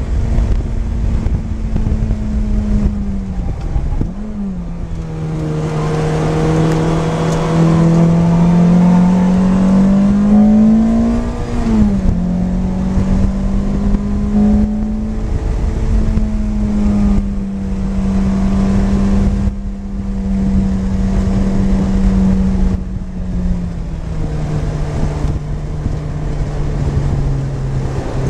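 Lotus Elise's four-cylinder engine at speed on track, heard from inside the cabin: its pitch dips about four seconds in, climbs steadily under acceleration for several seconds, drops sharply at a gear change, then holds steady before easing down again near the end. A steady rushing noise runs underneath.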